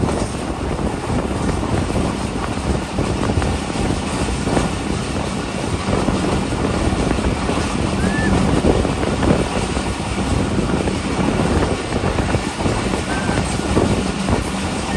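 Passenger train coach running along the track, heard from an open door: a steady rush of wind over the microphone mixed with the rumble and clatter of wheels on rails.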